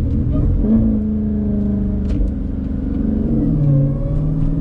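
Jeep Grand Cherokee Trackhawk's supercharged 6.2-litre V8 pulling under moderate acceleration: the engine note climbs, drops about three seconds in as the transmission upshifts, then climbs again, over a steady low road rumble.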